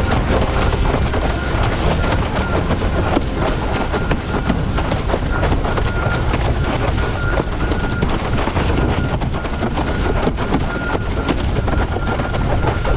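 Wind buffeting an outdoor microphone: a steady, rumbling noise with a faint high tone that comes and goes.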